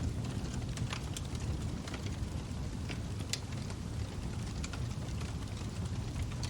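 Log fire burning in a fireplace: a steady low rumble of the flames with irregular sharp crackles and pops from the burning logs.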